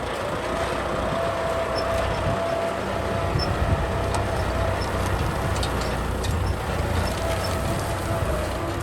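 Kubota M6040 tractor's diesel engine running steadily: a low rumble with a steady whine over it that drops slightly near the end.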